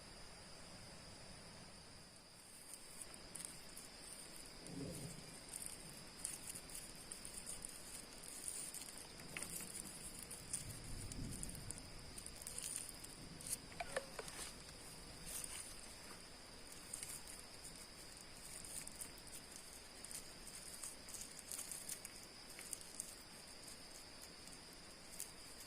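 Forest insects, crickets or cicadas, keeping up a steady high-pitched drone on two pitches, with many light scattered ticks and patters over it.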